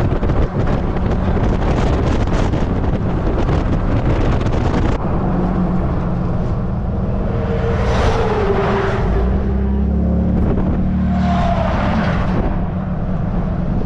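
A classic car being driven, heard from inside: a steady engine hum and road noise, with wind rushing until it drops away suddenly about five seconds in.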